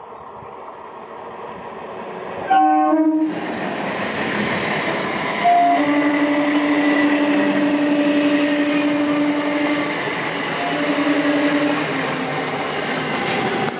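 Electric multiple-unit local train approaching, its rumble growing, then a short horn blast about two and a half seconds in. The train runs in along the platform with loud wheel-and-rail noise, sounding its horn in one long steady blast and then a shorter one.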